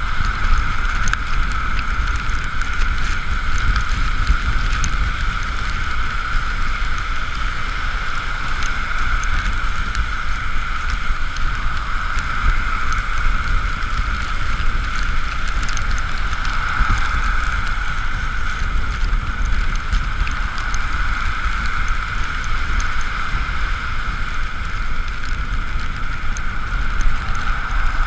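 Ride on an Ekoway ML5000 electric scooter on wet roads in the rain: steady wind rumble and tyre hiss, with a constant high whine running through it.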